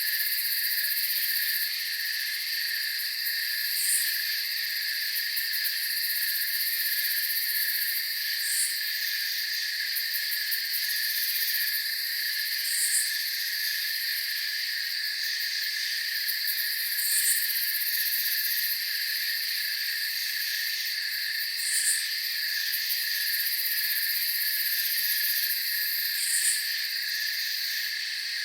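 Night insect chorus of crickets: several steady high trills at different pitches, joined about every four and a half seconds by a short, higher chirp.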